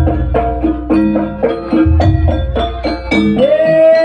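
Live Javanese jaranan ensemble music with quick, ringing pitched notes struck several times a second over deep drum beats. Near the end a held melody note slides up and sustains.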